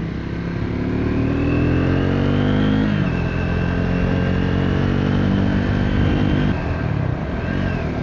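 Triumph Speed 400's single-cylinder engine accelerating through the gears. The revs rise for about three seconds, drop sharply at an upshift, climb again more slowly, and drop at a second upshift about two-thirds of the way through.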